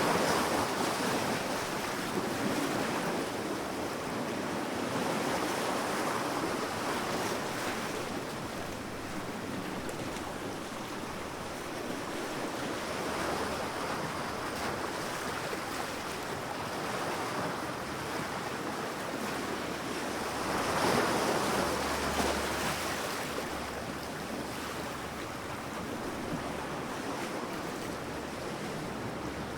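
Sea waves breaking on a beach, the surf swelling and easing every few seconds, with a low rumble of wind on the microphone.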